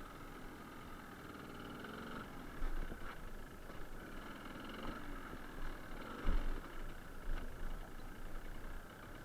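Suzuki TS125R's single-cylinder two-stroke engine running at low to moderate revs, the pitch wandering up and down as the bike is ridden over a rough gravel road, with a few low thumps.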